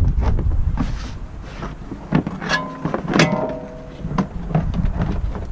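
Two sharp metallic knocks about half a second apart, each ringing on briefly, among a few lighter knocks, with wind rumbling on the microphone at the start.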